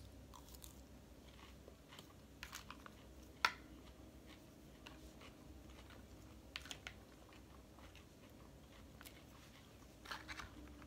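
A person chewing a mouthful of lettuce-and-crouton salad, with a few soft crunches and clicks scattered through and one sharper crunch about three and a half seconds in.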